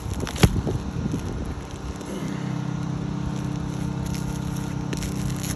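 A few knocks and one sharp click, then about two seconds in a steady, low motor hum starts and keeps running.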